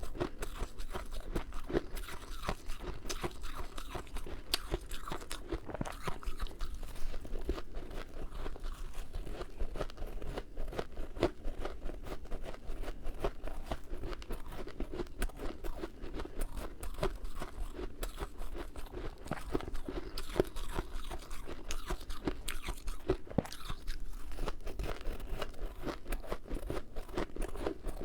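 Close-up crunching and chewing of powdery freezer-frost ice in the mouth, a dense run of soft crackles with no pauses.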